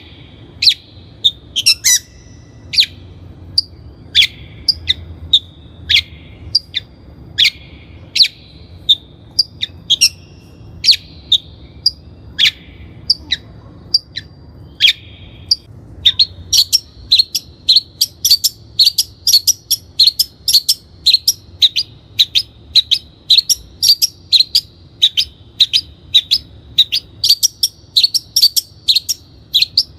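Long-tailed shrike (Lanius schach) calling: a long series of short, sharp high notes, varied and irregular at first, then from about halfway a fast, even run of about three notes a second.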